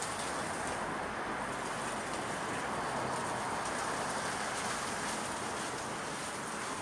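Steady outdoor ambience of a residential neighbourhood in the evening: an even, unbroken wash of distant traffic noise, with a faint high steady whine over it.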